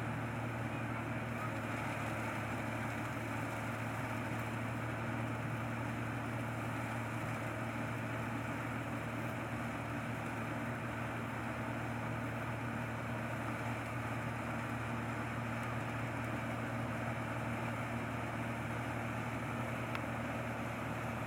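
Rice combine harvester's engine running steadily at a constant speed, an even drone with no changes.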